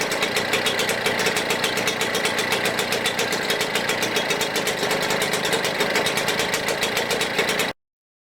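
Seagull two-stroke outboard motor running steadily with a fast, even firing beat, on its first run after a cylinder change with extra oil in the fuel. The sound cuts off abruptly near the end.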